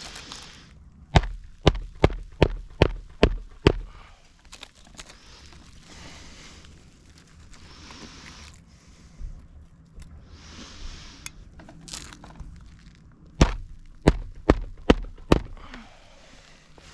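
Roofing hatchet driving nails into asphalt 3-tab shingles: a run of about seven sharp strikes, then a pause with scraping and rustling, then about five more strikes near the end.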